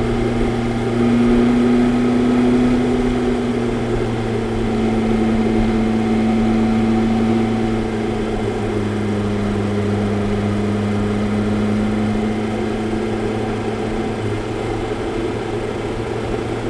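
BMW S1000-series inline-four motorcycle engine running at a steady cruise on the open road, its note holding nearly level, with wind and road noise from riding.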